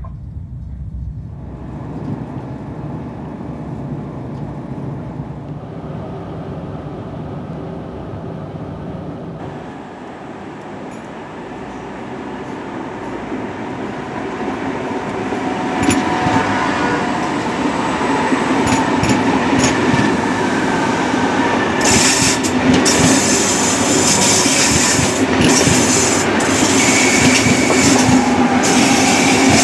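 Pendolino passenger train running on the rails, a steady rumble that grows louder in the second half, with rapid clicking and clattering from the wheels over the track from about two-thirds of the way in.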